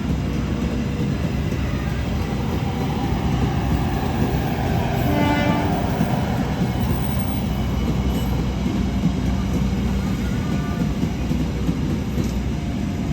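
Train passing close by: a continuous loud rumble from the wheels and running gear, with a short pitched tone about five seconds in.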